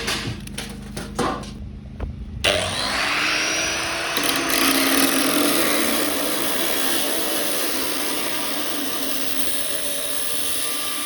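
A few sharp knocks, then about two and a half seconds in a handheld electric power tool spins up with a rising whine and runs steadily at full speed.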